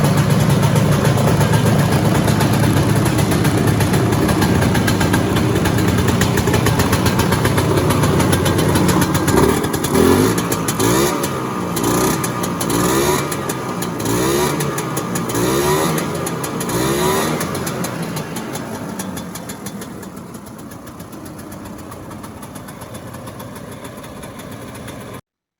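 Sachs SA280 single-cylinder two-stroke engine of a 1970 Sno Prince Blizzard snowmobile, freshly revived, running loud and steady. About ten seconds in it is revved up about five times in a row, then it grows quieter toward the end.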